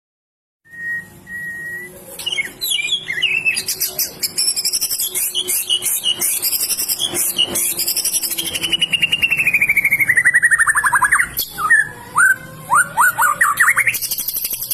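White-rumped shama (murai batu) singing a long, varied song in full voice: clear whistles and quick chattering phrases, then a long rapid trill that falls in pitch, followed by a series of quick rising sweeps and a high, fast chatter near the end.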